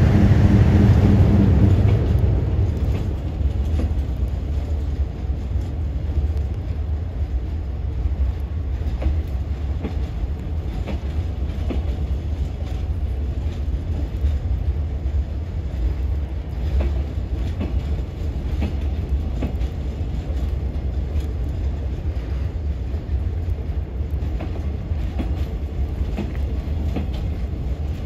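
Rail-laden Chiki 5500 flat wagons rolling slowly past: a steady low rumble of wheels on track with scattered clicks over the rail joints, louder and humming in the first couple of seconds.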